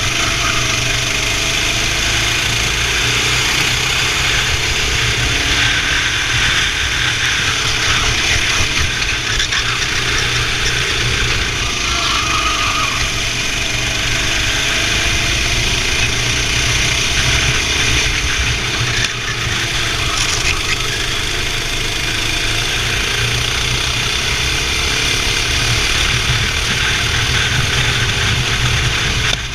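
Racing kart engine running hard during a race, its pitch repeatedly rising and falling as it accelerates and lifts off through the corners.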